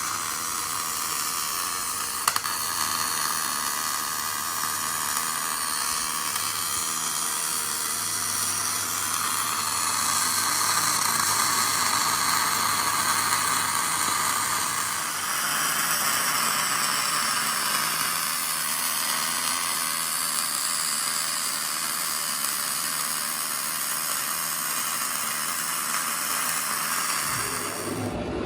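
Welding arc hissing and crackling steadily as metal is built up inside the worn pin bore of a JCB 530 quick-hitch ear, the weld overlay laid before re-boring to size. It stops abruptly near the end.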